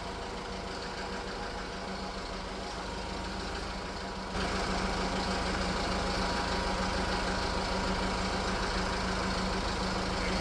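A heavy diesel engine idling steadily, stepping up suddenly in loudness about four seconds in.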